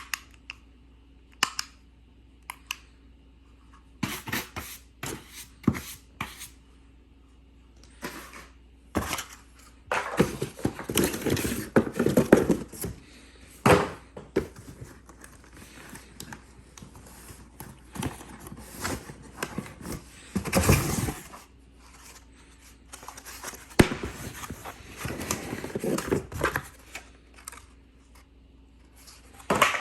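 Unboxing of a Dyson V15 vacuum cleaner: cardboard and plastic packaging rustled and handled, with scattered knocks and clicks as parts are taken out and set down. There are several longer stretches of rustling between the sharper knocks.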